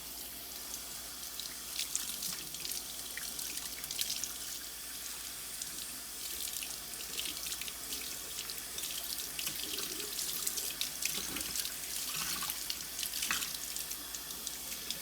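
Water running steadily from a faucet and splashing into the basin, with irregular splashes over it.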